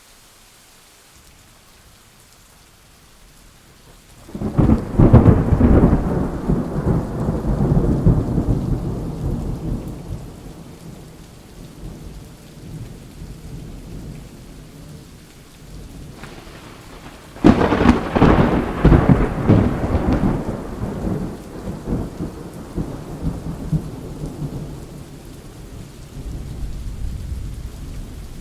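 Thunderstorm: steady rain hiss with two loud claps of thunder, one about four seconds in and another about seventeen seconds in, each rumbling away over several seconds.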